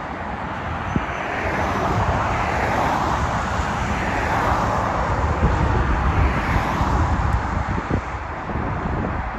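Airbus A350-900 airliner's Rolls-Royce Trent XWB jet engines on landing approach, a steady rushing roar that swells towards the middle and eases a little near the end, with wind rumbling on the microphone.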